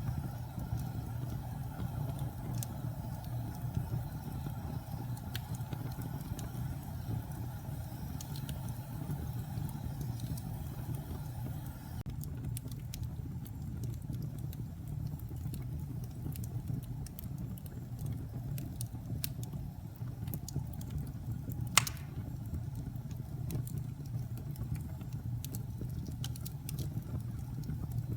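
Wood fire burning in a fireplace: a steady low rumble of the flames with scattered sharp crackles and pops. One louder pop comes about two-thirds of the way through.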